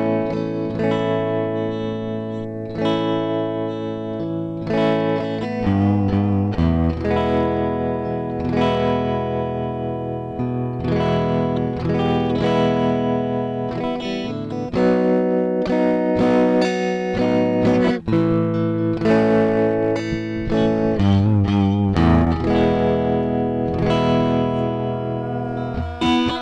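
Instrumental rock passage led by an electric guitar played through effects, with chords struck again and again and left to ring.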